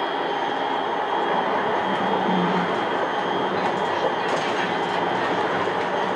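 Passenger cabin of a new Škoda 13T low-floor tram, running along the track between stops: a steady rolling noise of wheels on rail, with a short low hum about two seconds in.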